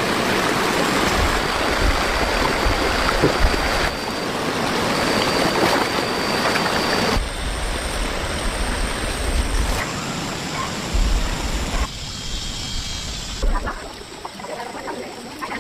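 Fast-flowing floodwater rushing and splashing in a steady rush, with low rumble beneath; the sound changes abruptly several times, at cuts between shots.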